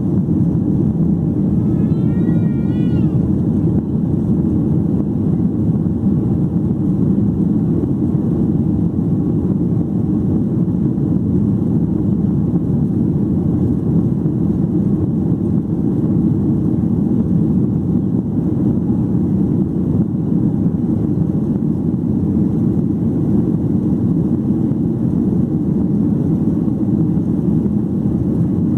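Steady cabin noise inside a Boeing 737-800, heard from a window seat behind the wing: the low, even rumble of its CFM56-7B engines and airflow. A short wavering high tone sounds about two seconds in.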